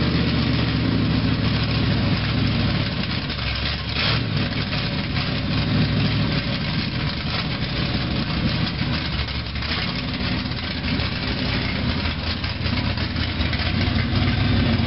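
Classic muscle car's engine idling as the car rolls slowly past at walking pace.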